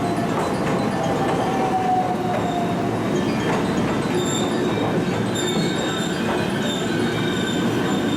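Electric train moving along the platform with a steady rumble of wheels on rail. A whine falls slowly in pitch during the first two seconds or so, and from about four seconds in, high thin wheel squeals come and go.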